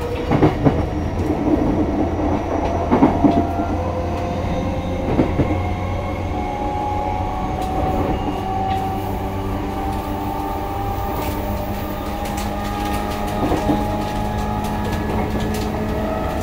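Commuter electric train running, heard from inside the passenger car: a steady rumble and hum of the motors and wheels, with occasional clacks of the wheels over rail joints, most of them in the first few seconds.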